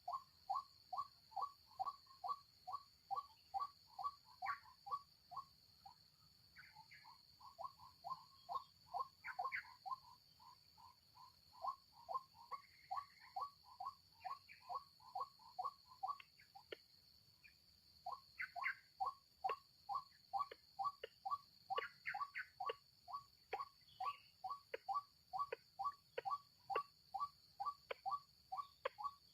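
White-breasted waterhen calling: a long run of short notes, each dropping in pitch, about two a second, with two brief pauses. A few higher notes are mixed in.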